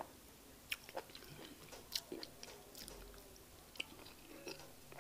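A person chewing a mouthful of fufu with egusi soup close to the microphone: soft, wet mouth clicks and smacks at irregular intervals.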